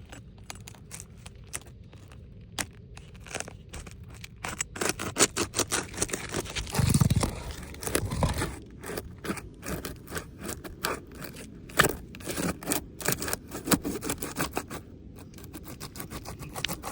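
Sealed asphalt shingles being pried loose with a hand tool: irregular scraping, crackling and tearing as the seal strip lets go, with a couple of dull bumps about seven and eight seconds in. The brittle tabs are cracking and ripping as they are lifted.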